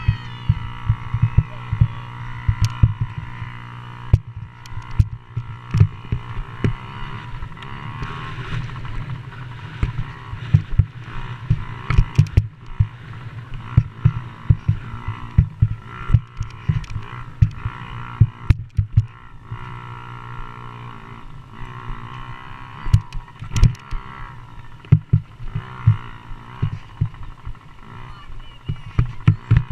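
Motocross dirt bike engines running and revving on the track, with frequent short, sharp low thumps throughout.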